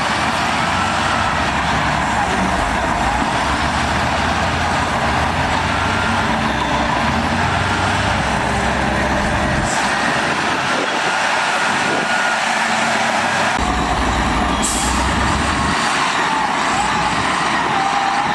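Heavy diesel earthmoving machinery working: loud, steady engine noise with a deep rumble that comes and goes and a thin whine wavering in pitch.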